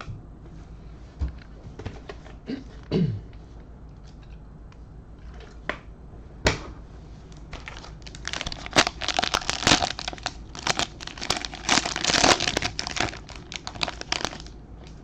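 A few light handling clicks, then from about eight seconds in several seconds of dense crinkling and tearing as a plastic trading-card pack wrapper is ripped open.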